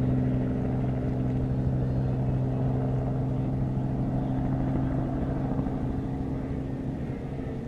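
An engine running at a steady, unchanging pitch, a low hum that slowly fades toward the end.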